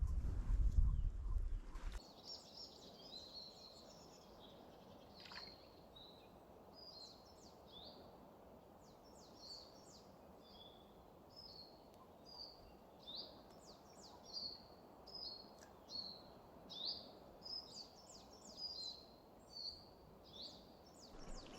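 Small birds singing, a run of short high chirps and whistled notes every second or so that comes thicker in the second half, over a faint steady hiss. A loud low rumble at the start fades away within the first two seconds.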